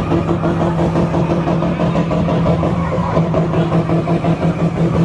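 Car engine idling steadily, with a low hum and a quick, even pulse to its level.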